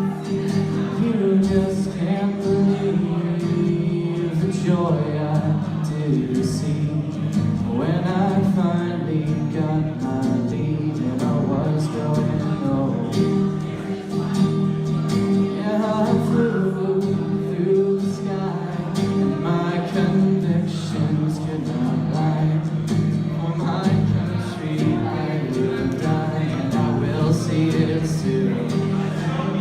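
A man singing a slow song to acoustic guitar accompaniment.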